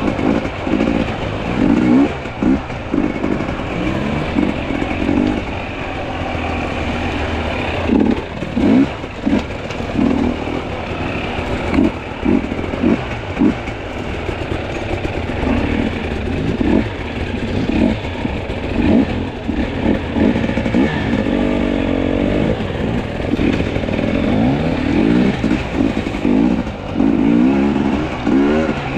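Two-stroke enduro dirt bike engine revving up and down in short, repeated bursts of throttle.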